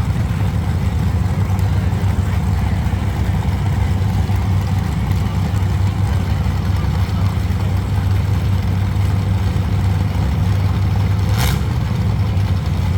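Loud, unmuffled engines of full-size demolition derby cars running and revving in a steady low drone, with one sharp bang about eleven and a half seconds in.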